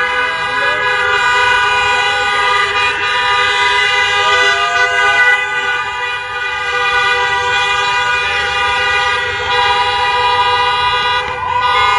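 Several vehicle horns, truck air horns among them, blaring together in one long continuous chorus of overlapping steady tones.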